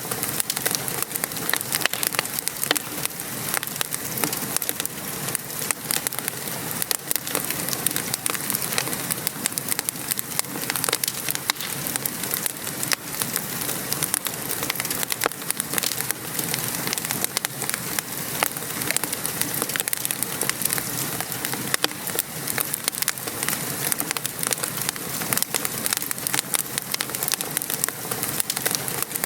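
Fireplace crackling with many small sharp pops over a steady patter of gentle rain outside.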